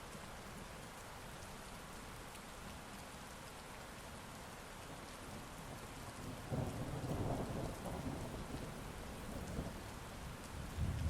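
Steady heavy rain, with a rumble of thunder rising about six and a half seconds in and a second swell near the end.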